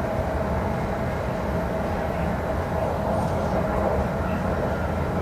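Hyundai Rotem EMU (MTR East Rail Line R-Train) running at speed, a steady rumble with a steady hum over it.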